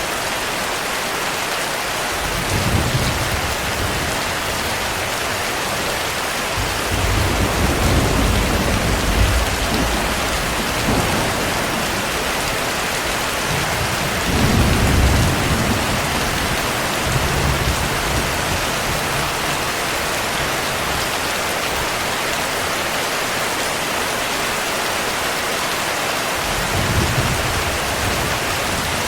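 Steady heavy rain with low rolls of thunder coming and going, five times, the longest about seven to ten seconds in.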